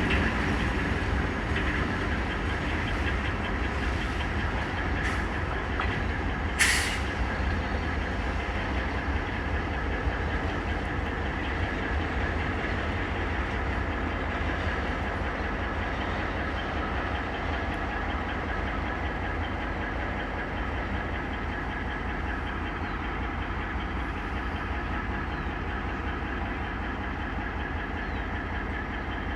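A train rolling by on the track: a steady low rumble of wheels and cars that slowly fades. About seven seconds in comes one brief, sharp, high-pitched sound.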